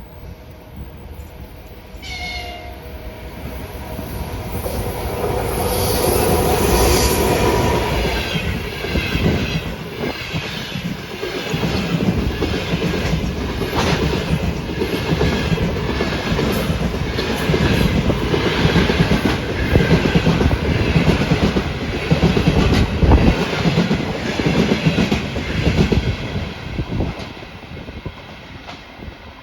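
EP1M electric locomotive hauling a passenger train past at speed. The locomotive passes first and the sound swells to its loudest. Then the coaches' wheels click over the rail joints in a steady rhythm, fading near the end as the train moves away.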